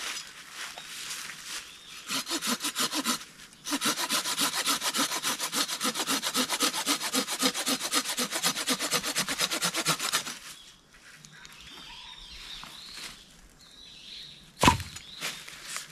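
Small hand saw cutting through wood in quick back-and-forth strokes. A few strokes come at first, then a fast, steady run lasts about seven seconds and stops. A single sharp knock comes near the end.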